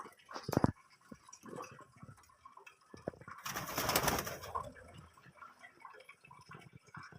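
Cage birds with a dove-like cooing, sharp clicks near the start and a loud rustling burst lasting about a second, a little past halfway.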